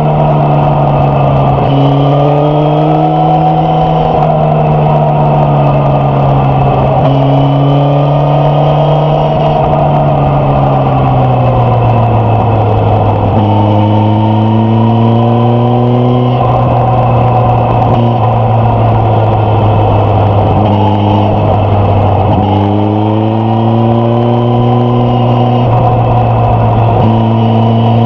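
Suzuki GSX-S1000F's inline-four engine and exhaust under way, its pitch climbing and dropping several times as the rider rolls the throttle on and off through the bends. Wind noise runs underneath.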